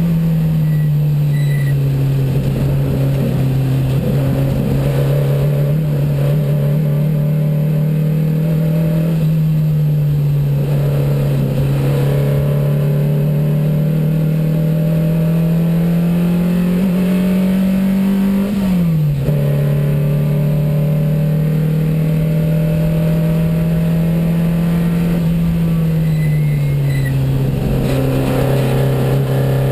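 1972 Porsche 914 race car's 2270cc flat-four engine running hard, heard from inside the stripped cabin. The engine note holds steady, climbs slowly for several seconds, drops sharply about two-thirds of the way through, then holds and falls again near the end.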